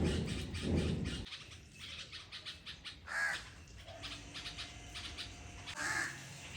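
Crows cawing: a run of loud caws in the first second or so, then single caws about three and six seconds in, with faint rapid clicking between them.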